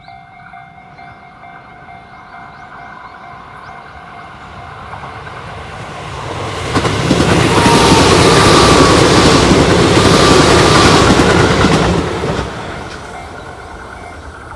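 Tobu 8000-series electric commuter train approaching and passing at speed: the rolling noise of its wheels on the rails swells from faint to loud about seven seconds in, holds for some five seconds, then fades quickly as the cars go by. Faint thin squealing tones come through over the run noise while it passes.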